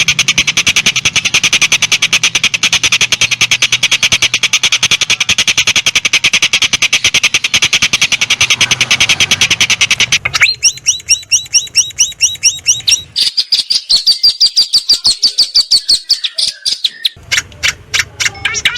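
Songbird calls: a fast, even run of rapidly repeated high notes for about ten seconds, then a series of quick downward-sweeping notes, then another run of notes, and a fast series again near the end, changing abruptly from one part to the next.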